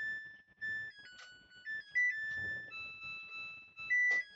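Phone call tones playing from a phone: steady electronic notes that step between a few high pitches in a repeating melody, like a ringtone, with two short noisy bursts about a second in and near the end.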